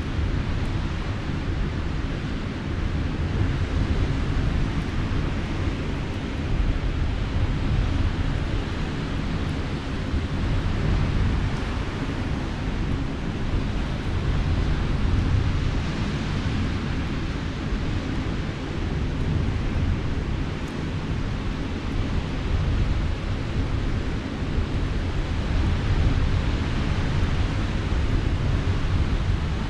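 Sea surf and wind: a steady low rumble of waves that swells and eases every few seconds, with wind buffeting the microphone.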